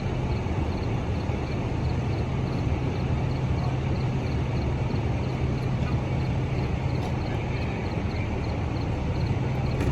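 Vehicle engines idling steadily with a low hum, with a faint high ticking about three times a second.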